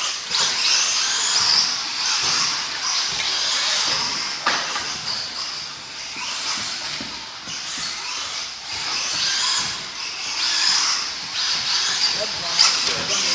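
Radio-controlled stadium trucks and truggies racing on a dirt track, their electric motors whining up and down in pitch as they accelerate and brake.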